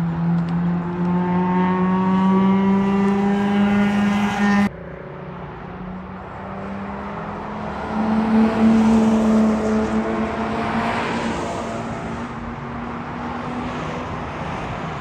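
Racing car engine accelerating hard, its pitch rising steadily, cut off abruptly about five seconds in; then another car's engine swells and fades as it passes by at speed.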